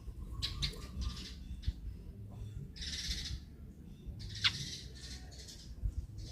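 Eurasian tree sparrow calling: short high chirps, a harsh chatter about halfway through and a quick falling call, over a low background rumble.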